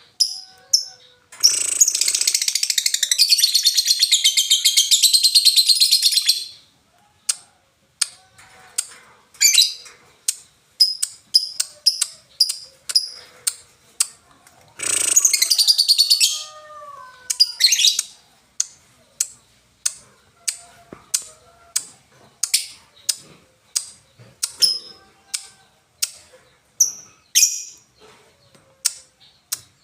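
Lovebird singing: a string of short, sharp, high chirps, broken by two long unbroken fast trills, one of about five seconds near the start and a shorter one about halfway, the sustained 'ngekek' song that lovebird keepers train for.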